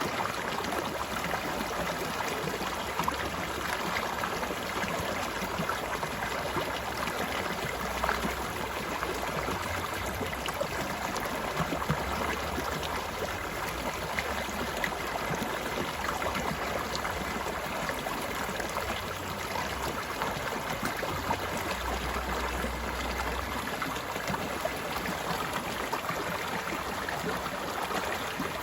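Flowing stream water, a steady babbling rush with fine splashes throughout.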